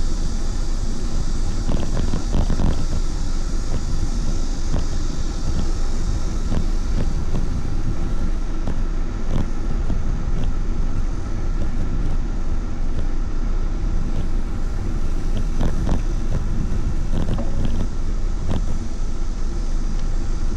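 Steady wind rush on the microphone and road noise from a moving bicycle, with scattered light clicks and rattles.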